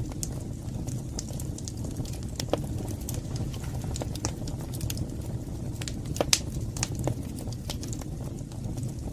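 Fire burning in a fireplace: a steady low rumble of flames with irregular sharp crackles and pops, the loudest about six seconds in.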